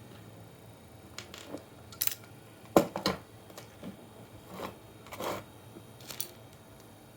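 A series of irregular sharp clicks and clacks from hands and tools working on a computer power supply, about ten in all, the loudest a sharp click near the middle.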